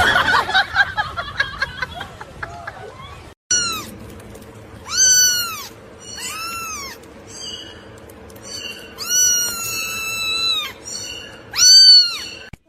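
A loud sudden noise that dies away over about two seconds, then a cat meowing several times in drawn-out, arching calls, the longest lasting nearly two seconds.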